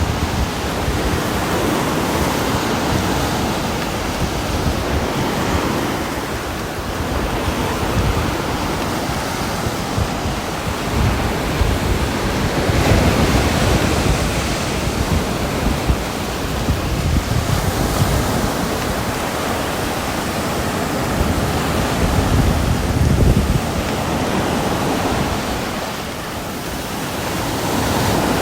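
Steady heavy rain falling, a dense, even hiss with a deep low rumble that swells and eases a little.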